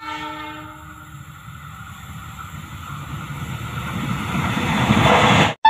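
A KAI diesel-electric locomotive hauling a passenger train sounds its horn, which fades out about a second in, then the rumble of the approaching train grows steadily louder and cuts off abruptly near the end.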